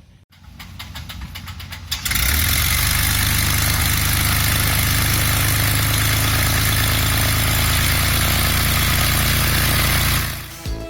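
1964 Cessna 172's Continental O-300 six-cylinder engine being started. It cranks with a rapid ticking for about two seconds, then catches and runs loud and steady with the propeller turning, and drops away near the end.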